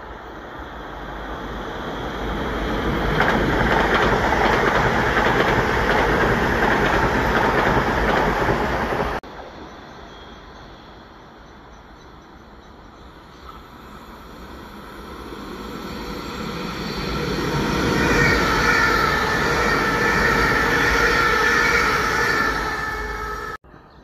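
Electric passenger trains running through a station: a train's rumble builds over a few seconds, stays loud and is cut off abruptly about nine seconds in. A second train's noise then rises, with several high steady tones over the rumble, until it is cut off abruptly shortly before the end.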